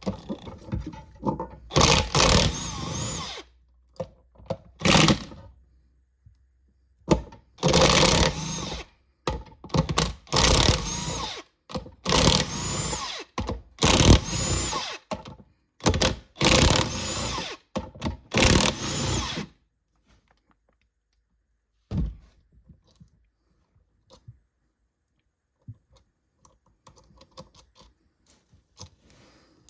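A handheld power driver runs in about eight short bursts of a second or so each, spinning out bolts on the transmission case. Its motor pitch rises and falls within each burst. In the second half there are only a few light metal clicks and knocks as parts are handled.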